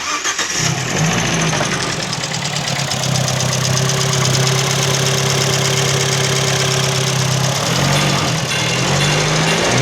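Abarth 124 Spider's 1.4-litre turbocharged four-cylinder engine idling steadily, with the pitch wavering up and down a couple of times near the end; the engine runs as a tested-good engine.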